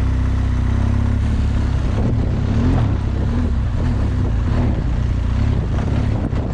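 BMW R1200GS Adventure's boxer-twin engine running steadily as the motorcycle rides along.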